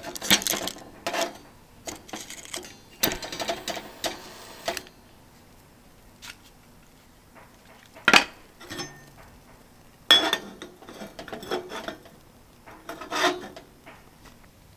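Small metal cookware and utensils being handled: a series of short clinks, knocks and scrapes with quiet gaps between them, and a longer scraping hiss about three seconds in.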